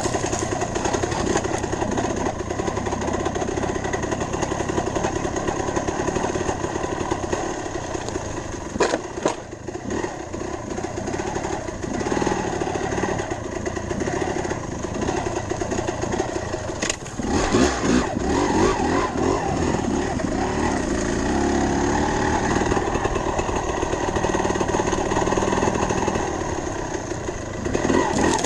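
Dirt bike engine running as the bike is ridden, its note shifting throughout, with a couple of sharp knocks partway through.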